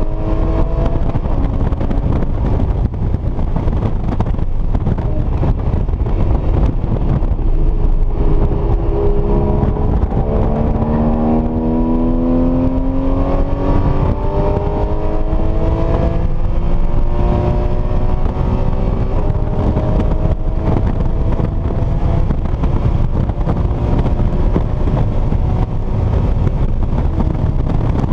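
Porsche Cayman S flat-six engine running hard on track, heard from inside the cabin over heavy road and tyre rumble. Its pitch climbs slowly as the car accelerates, most clearly around the middle.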